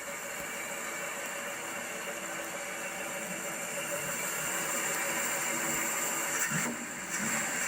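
A car engine running steadily, with a steady hiss over it.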